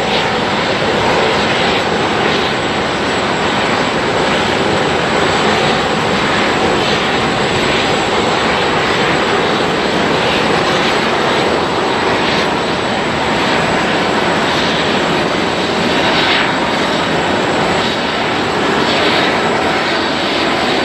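Airliner jet engines running, a loud, steady rushing noise with a thin, high, steady whine above it.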